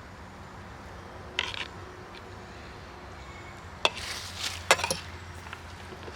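Cooking pots and utensils clinking and clattering in three short bursts, the later two quick runs of several hits, over a steady low background hum.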